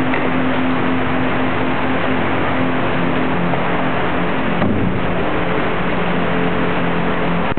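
Aston Martin V8 Vantage's V8 engine held at steady high revs, loud throughout, with a brief dip in revs about four and a half seconds in before it settles back.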